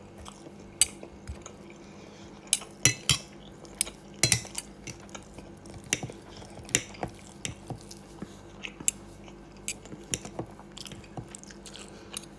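Someone eating a meal: cutlery clicking and scraping on a plate, with chewing between, in irregular short clicks, a few louder ones about two to four seconds in.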